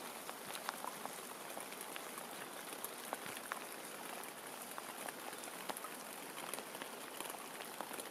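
Steady rain falling, a continuous hiss dotted with many sharp ticks of single drops striking close by.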